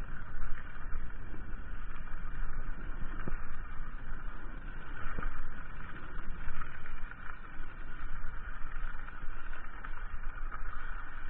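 Steady, wavering rushing noise of a mountain bike being ridden: wind buffeting the microphone and tyres rolling over the trail.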